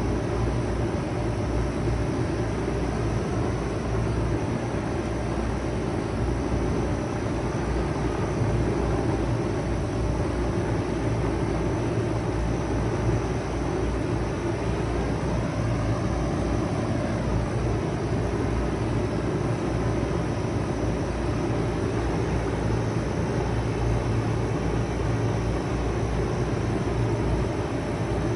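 2001 Bard 5-ton wall-hung heat pump running steadily in heat mode: a constant low hum from the compressor under the whoosh of the fan moving air.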